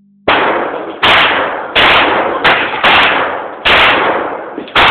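Smith & Wesson Sigma .40 S&W pistol fired seven times at uneven intervals, each loud shot followed by an echoing decay.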